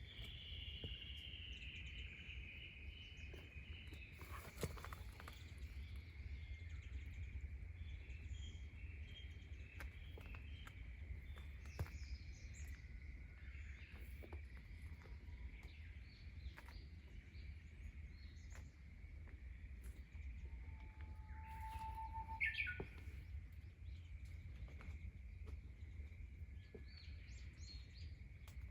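Outdoor rural ambience: a steady, high insect chorus with occasional bird calls, including one falling call about three-quarters of the way through. Scattered sharp clicks run through it over a low steady rumble.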